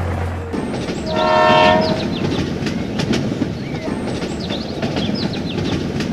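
A horn blares once for about a second, over a steady rattling rumble like a passing vehicle; a cartoon sound effect.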